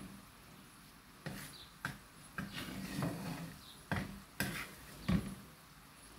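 A series of light knocks and clatters, about seven of them spread irregularly over a few seconds.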